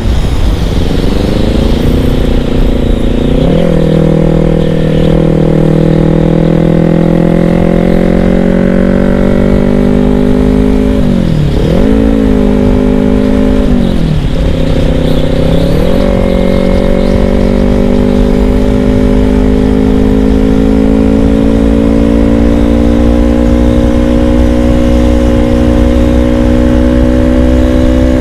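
Yamaha R25's 250 cc parallel-twin engine through an aftermarket dual-silencer undertail exhaust, heard while riding. The engine note climbs slowly as the bike pulls, and several times it drops sharply and recovers within a second.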